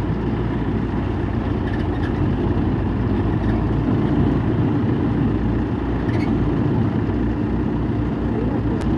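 Heavy diesel construction machinery running steadily with a low, pulsing rumble: a JCB backhoe loader pushing a road roller.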